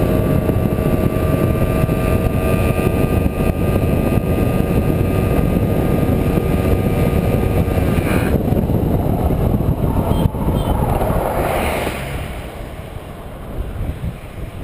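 Fantic 240 two-stroke motorcycle engine running at speed under heavy wind rush. About eight seconds in it cuts out abruptly: the engine has failed and locked the rear wheel. Wind noise, a sharp knock and a short hiss follow, fading as the bike slows.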